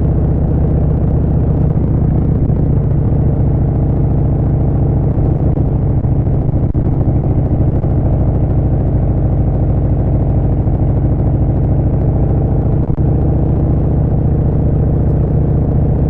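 Harley-Davidson Street Bob 114's Milwaukee-Eight V-twin engine through a Vance & Hines Short Shots exhaust, running steadily under way with a deep, even exhaust note.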